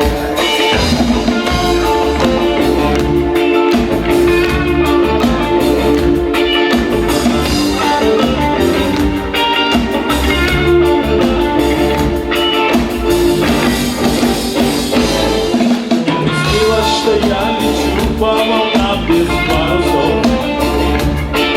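Live band playing an instrumental passage: guitar over a drum kit with a steady beat, no vocals.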